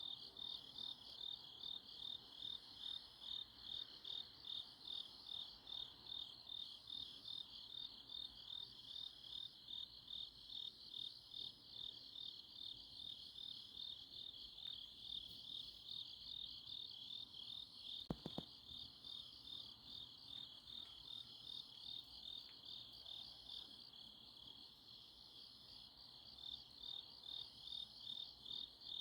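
Night chorus of crickets and other grass insects, a steady pulsing chirp repeating slightly faster than once a second, with a fainter, higher chirp from another insect behind it. A brief click about eighteen seconds in.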